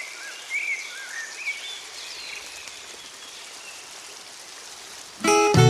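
Outdoor ambience: a steady rain-like hiss with a few short, arched bird chirps in the first couple of seconds. Plucked-string music starts loudly near the end.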